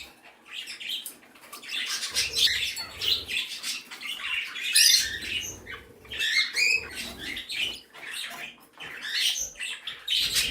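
A flock of pet birds, budgies among them, chirping, chattering and squawking continuously in dense overlapping calls, coming in several louder flurries.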